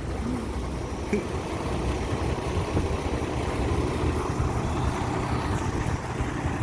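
Heavy truck engine running steadily, a low even drone.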